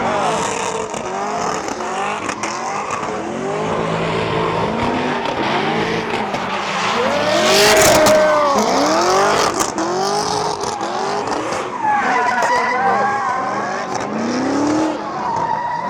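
Car engines revving up and down over and over, about once a second, as cars spin donuts, with tires squealing. The loudest rev comes about halfway through.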